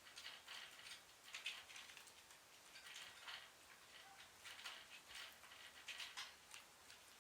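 Pet birds making faint, short, scratchy sounds in irregular clusters every second or so.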